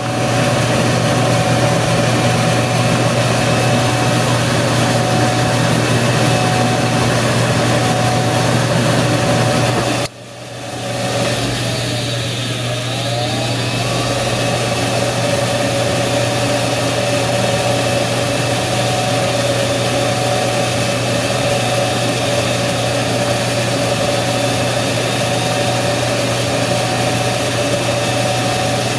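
A household furnace running with a loud, steady hum. About ten seconds in it cuts out abruptly, and over the next few seconds its pitch dips and climbs back up as it kicks on again, then runs steadily.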